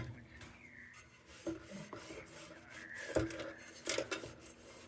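Light clinks, knocks and scraping of metal against metal as solder is worked off the lantern's chimney. Several separate knocks, two of them with a short ring, between spells of rubbing.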